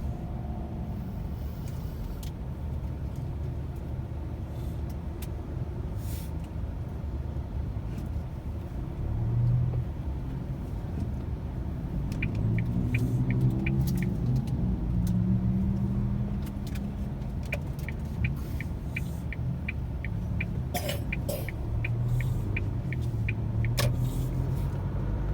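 Car driving in city traffic, a steady low road and engine rumble inside the cabin that swells now and then. Twice there is a run of rapid, evenly spaced ticking, about three ticks a second.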